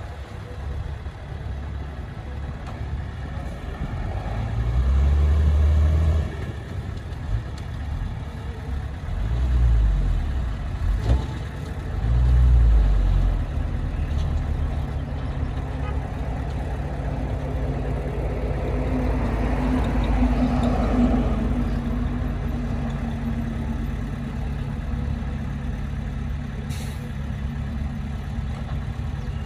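Heavy diesel earthmoving machinery running, with three short, deep surges in engine load about five, ten and twelve seconds in, and a longer, broader swell past the middle.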